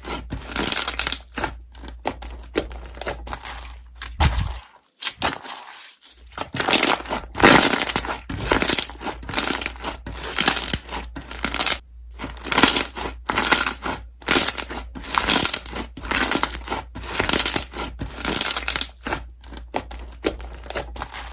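Slime being pressed and squished by hand: dense, irregular crackling crunches, pausing briefly about five seconds in, over a low steady hum.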